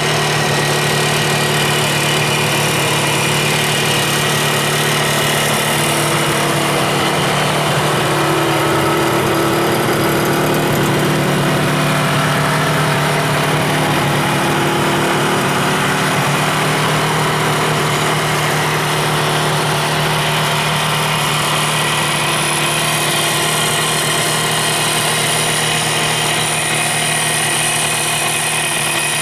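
Kawasaki 350SS two-stroke three-cylinder motorcycle engine idling steadily.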